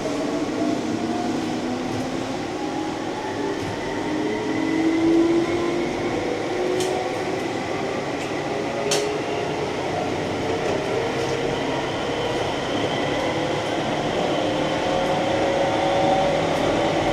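Keihan electric train running, heard from on board: steady rumble of wheels on rails with the traction motors' whine rising slowly in pitch as the train gathers speed, and a few sharp clicks.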